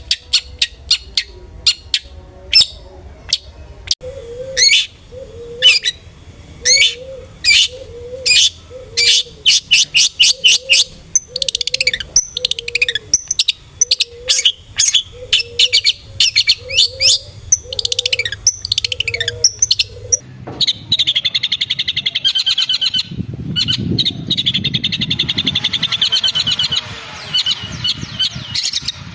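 Long-tailed shrike (cendet) calling in agitation: a fast run of sharp, high chirps and ticks over a repeated lower note, changing about twenty seconds in to a dense, scratchy chatter.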